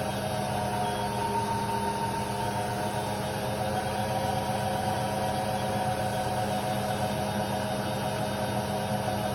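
Indesit WIDL 106 washer-dryer running with a steady motor hum and a constant whine.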